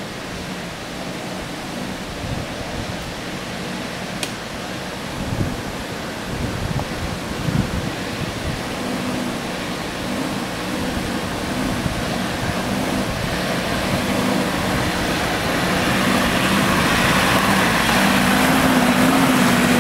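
Off-road SUV engine running steadily with tyre and road noise, a couple of bumps about five and seven seconds in. The hiss grows gradually louder through the second half.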